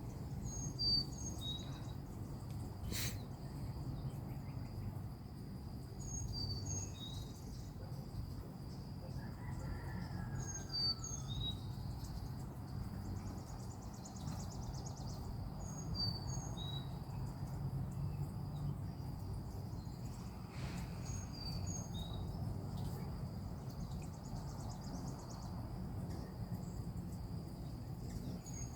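Songbird singing the same short, high phrase of a few quick chirps about every five seconds, over a steady high insect drone and a low background hum.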